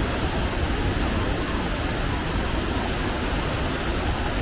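Steady rushing water of a waterfall, an even, unbroken noise with a strong low rumble.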